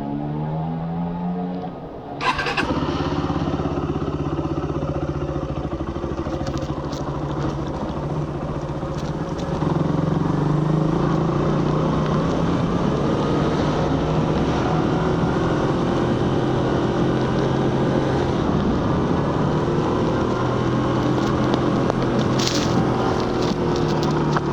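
Suzuki GSX-R150's 150cc single-cylinder engine through its stock exhaust, heard on a moving motorcycle. The engine pitch rises for about two seconds, dips briefly and gives a sharp crack. It then runs at a steady note with road and wind noise, getting louder about ten seconds in.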